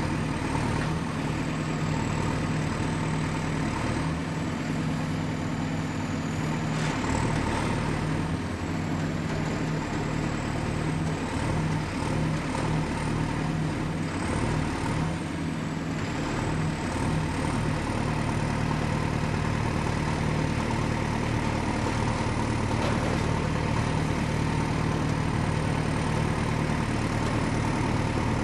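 Excavator's diesel engine running steadily, with a thin high whine above it that drifts up and down in pitch.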